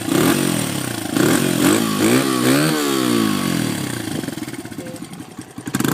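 Honda XR80's small single-cylinder four-stroke engine revved in several quick throttle blips, its pitch rising and falling, then settling back toward idle, with one more sharp blip near the end.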